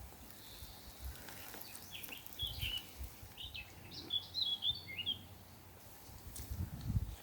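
A small songbird chirping in a quick run of short notes for about three seconds, starting about two seconds in, with low dull rumbles near the end.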